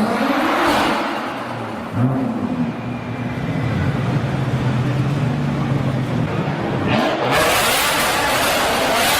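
A car engine revving: its pitch jumps up about two seconds in and is held steady. About seven seconds in, a loud rush of noise comes in over it.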